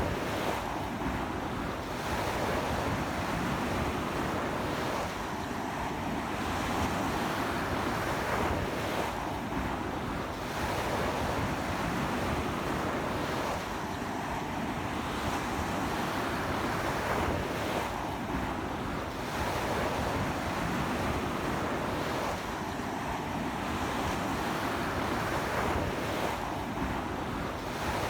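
Sea waves breaking and washing onto a sandy beach in a strong onshore wind, an unbroken rush of surf that swells every few seconds, with wind buffeting the microphone.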